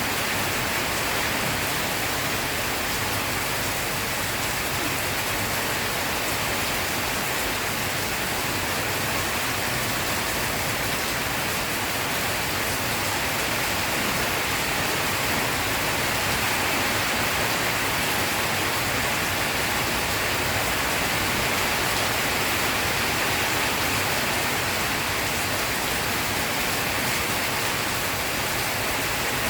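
Steady rain falling: an even, unbroken hiss with no thunderclaps.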